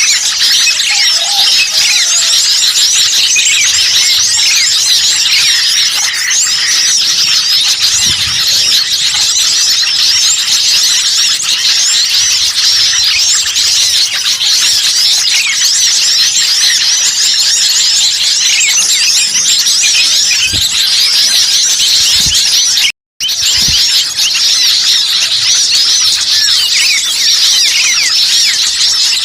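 A dense, noisy chorus of many small songbirds chirping and chattering over one another: a bird-lure recording meant to draw in wild birds. The sound briefly cuts out about three quarters of the way through.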